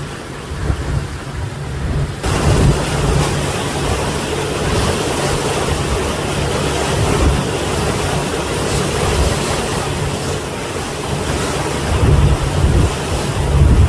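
Waves washing ashore in a steady rush, with wind buffeting the microphone in uneven low gusts.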